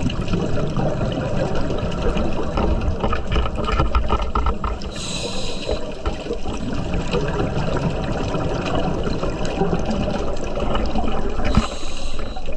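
Underwater sound of a scuba diver breathing through a regulator: a constant low bubbling and crackling of water, with a short hiss about every six seconds.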